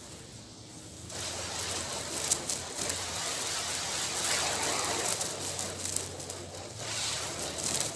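Narrow water jet from a garden hose fitted with a pen tip as a nozzle, spraying and pattering on a surface; it gets louder about a second in.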